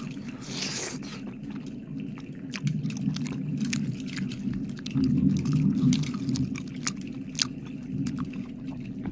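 Close-miked wet mouth sounds: irregular sticky clicks, smacks and licking, with a short breathy puff about half a second in.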